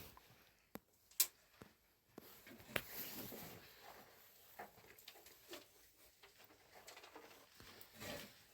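A few sharp, light clicks and knocks over faint, uneven rustling, most of them in the first three seconds.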